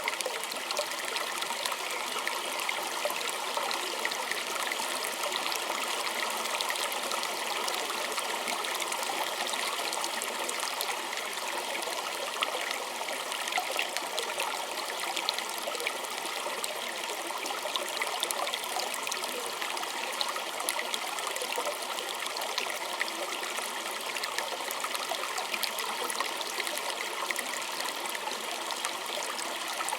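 Small stream of water running and trickling steadily over stones, a continuous rushing babble with fine bubbling splashes.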